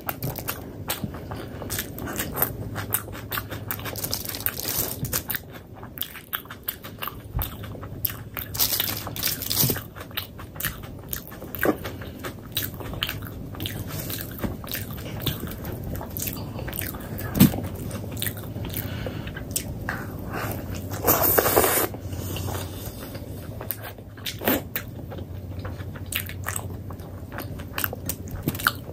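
Close-miked eating: biting and chewing paratha, with many small crunches and mouth clicks. There is a louder noisy stretch about two-thirds of the way through.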